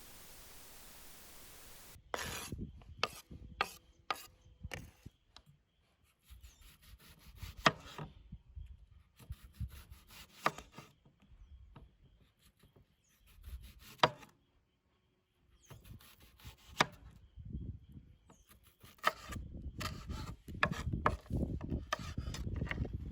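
Irregular knocks and scraping against wood, with a few sharp, much louder strikes scattered through it, such as a blade or hard object working on a wooden surface.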